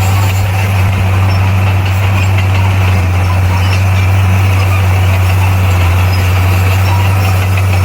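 Diesel engine of heavy earthmoving equipment running steadily, a loud, even low drone.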